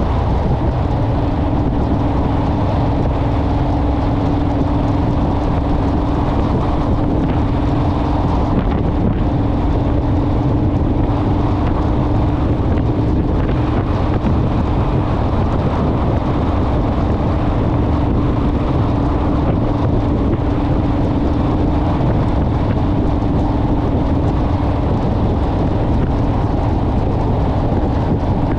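Honda Rebel motorcycle cruising at a steady speed: a constant engine note under loud wind rushing over the microphone.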